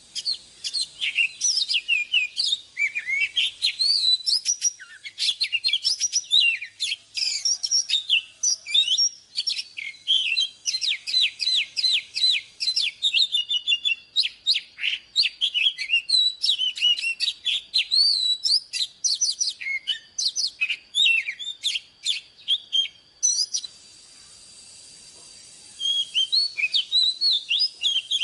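Oriental magpie-robin singing a fast, varied run of clear whistles, chirps and short trills. The song breaks off for a couple of seconds near the end, then starts again.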